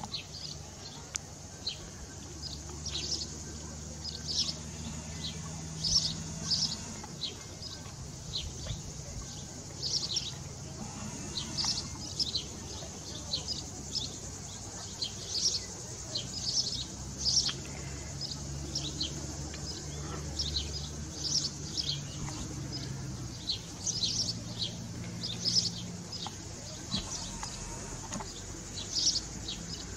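Small birds chirping, short high calls repeating every second or so, over a faint low background hum.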